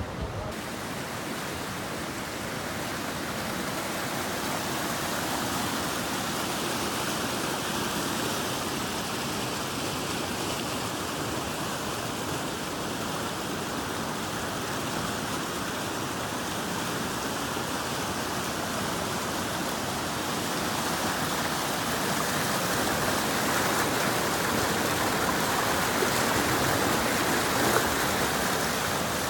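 A steady rushing noise like running water, with no distinct events, slowly growing louder toward the end.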